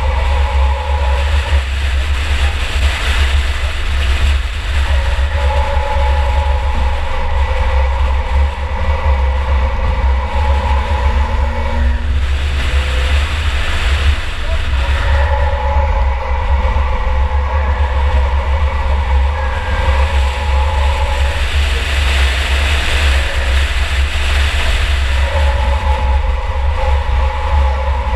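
Onboard sound of a 2004 Chevrolet Impala enduro race car under way: a loud, deep, steady engine rumble with road and wind noise. A higher engine tone comes and goes in stretches of several seconds.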